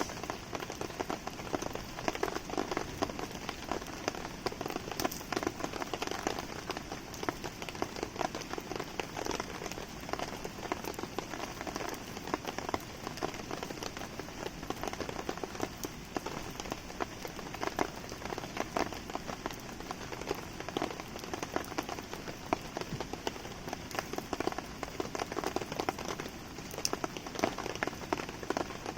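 Steady rain falling, dense with small sharp drop ticks, mixed with the crackle of a wood campfire burning in the rain.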